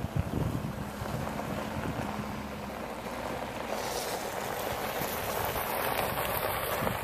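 Wind blowing across the microphone as a steady rushing noise, growing stronger about four seconds in.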